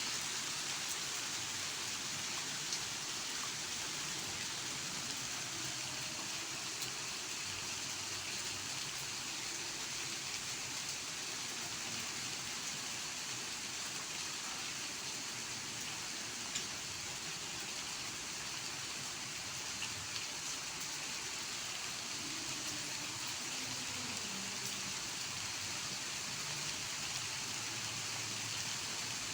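Steady rain falling: an even hiss with occasional sharper ticks of single drops.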